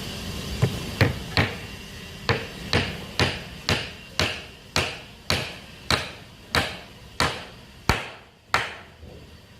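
Carpenter's hammer striking about fifteen times at a steady pace, roughly two blows a second, each blow with a short ringing tail.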